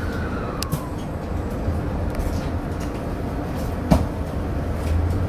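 Electric commuter train running through a subway tunnel, heard from the front of the train: a steady low rumble, with a short falling whine in the first second and a single sharp knock about four seconds in.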